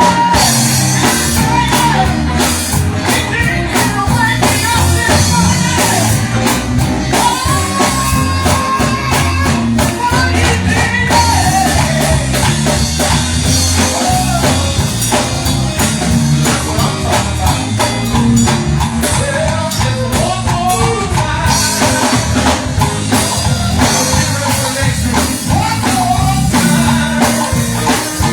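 Band music with drum kit, bass and guitar under a singing voice, played at a steady loud level.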